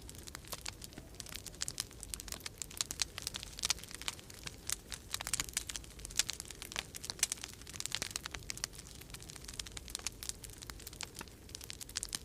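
Wood fire crackling in a fireplace: a dense, irregular run of sharp snaps and pops. Under it, a steady low rumble of winter storm wind.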